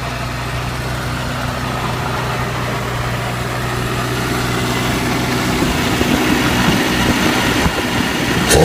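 Suzuki SJ413's 1.3-litre four-cylinder petrol engine on an SU carburettor, idling steadily, then picking up and running louder and less evenly from about five and a half seconds in. A sharp click comes near the end.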